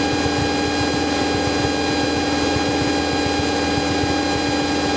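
Cessna 172's piston engine and propeller running steadily at cruise, an even drone with steady humming tones, heard inside the cabin.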